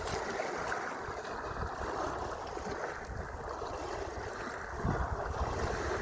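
Sea waves washing, with wind rumbling on the microphone; the wash swells louder about five seconds in.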